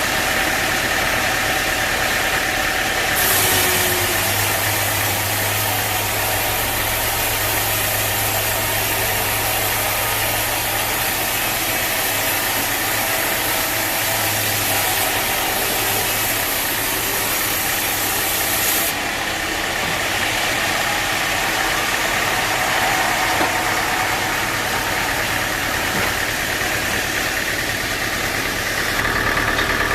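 Sawmill machinery running steadily with an engine-like drone. A high hiss and a low hum join in about three seconds in and drop away a little past halfway.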